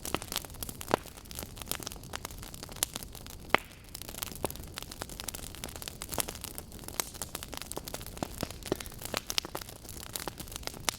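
Wood fire burning, logs crackling with a dense run of irregular sharp pops and snaps over a steady low rumble and hiss; one pop about three and a half seconds in is the loudest.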